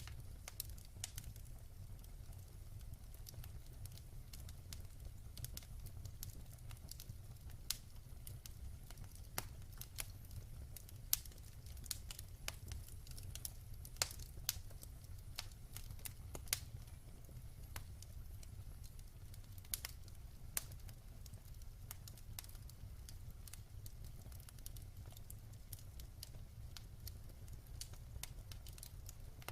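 Wood fire burning in a fireplace: irregular crackles and sharp pops from the burning logs, a few louder snaps among them, over a steady low rumble.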